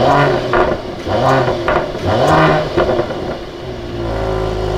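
Mercedes-AMG GLE 53's 3.0-litre inline-six revved in three quick blips, each rising and falling in pitch, the last one the longest, then settling to a steady idle about three and a half seconds in. Deep exhaust note, heard from behind the exhaust tips.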